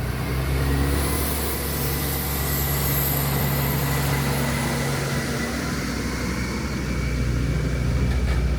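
A vehicle running steadily: a low engine hum over constant travel noise.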